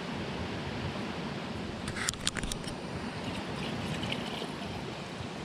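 Small jungle stream flowing steadily, with a few light knocks about two seconds in.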